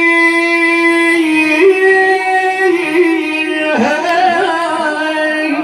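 A man chanting a Shia elegy (hida), holding long drawn-out notes. His voice steps to a new pitch about a second and a half in and wavers with ornaments near the middle.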